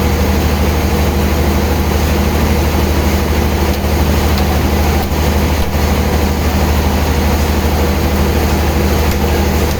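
Heavy sawmill machinery running steadily, a loud constant low hum under a broad mechanical noise.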